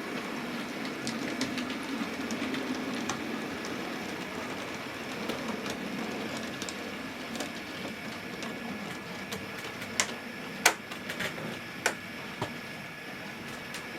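Bachmann J94 0-6-0 saddle tank model locomotive running along the track: a steady hum from its low-geared coreless motor, with light clicks of wheels over rail joints and points, and a few sharper clicks near the end.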